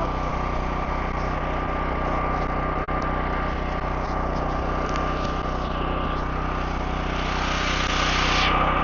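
A small engine running steadily at an even speed, with a constant high whine over it. The sound drops out for an instant about three seconds in.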